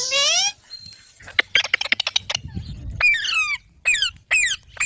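Pet green parrots calling: a rising squawk at the start, a quick run of clicks about a second and a half in, then a series of short screeches that fall in pitch.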